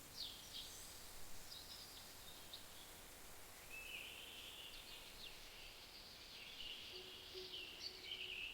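Faint outdoor ambience of birds chirping: short chirps and quick sweeping calls repeating throughout, over a soft steady hiss.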